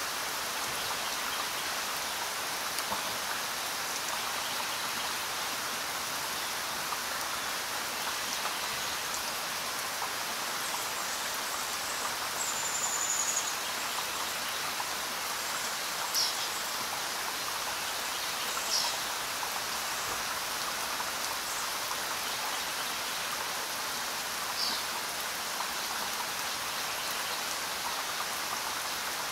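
Onions, ginger-garlic paste and then raw chicken pieces sizzling in hot oil in a non-stick frying pan, a steady hiss, with a few faint short high sounds scattered through it.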